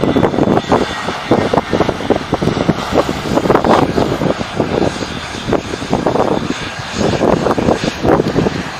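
Airliner engines running during a takeoff or landing, heard as a loud, uneven rush, with wind buffeting the microphone in gusts.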